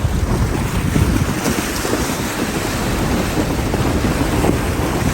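Loud, steady rushing and churning of a 4WD ploughing through a creek crossing, with a low rumble underneath and wind buffeting the microphone.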